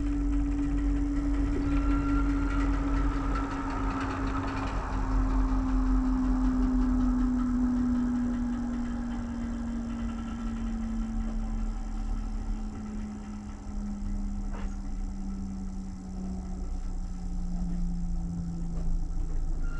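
Passenger train slowing down, heard from inside a coach: a low running rumble with one steady tone that falls slowly in pitch as the train loses speed, and a single click about two-thirds of the way through.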